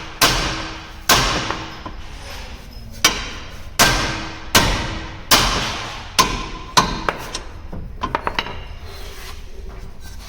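Hammer blows on the steel front hub and drive shaft assembly of a Maruti WagonR as it is knocked apart: about eight heavy strikes, each ringing, roughly a second apart, then a quick run of lighter taps near the end.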